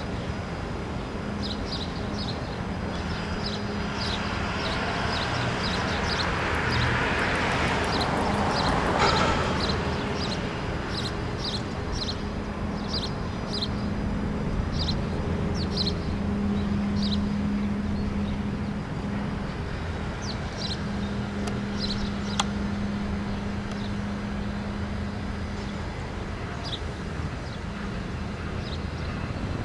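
Small songbird chirping: short, high chirps in quick runs, thick through the first half and sparser later. Under it runs a steady low traffic hum, and a vehicle swells past and fades about seven to ten seconds in.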